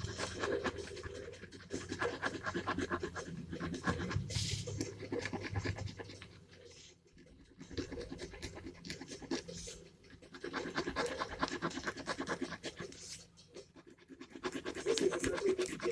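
Gel pen scratching quickly over paper in coloring strokes, in spells with short pauses about 7 and 13 seconds in.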